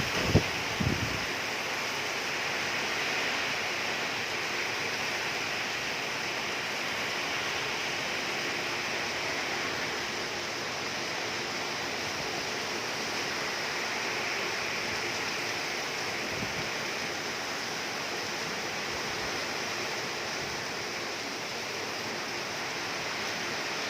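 Heavy rain falling in a steady, even downpour. A couple of brief low thumps come in the first second.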